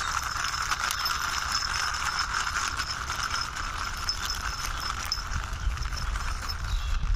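Small plastic toy vehicle pushed along by hand, its wheels rolling and rattling steadily with many small clicks.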